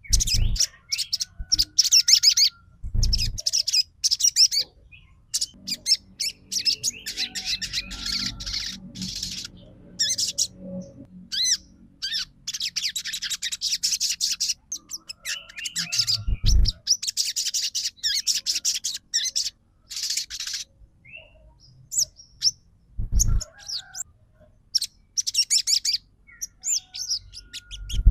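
Sogon bird giving repeated bursts of rapid, high chattering song with short pauses between them, a lure recording played to provoke other sogon birds to sing. A few short low thumps sound between the bursts.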